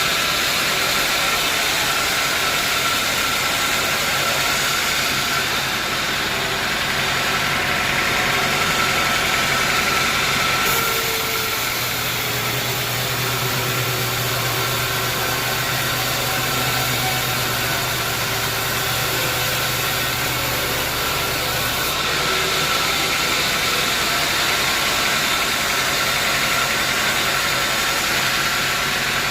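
Bandsaw sawmill machinery running steadily with a continuous mechanical hum and hiss; the sound changes for about ten seconds, from roughly 11 to 22 seconds in, with a stronger low hum and a brighter hiss, then returns to its earlier tone.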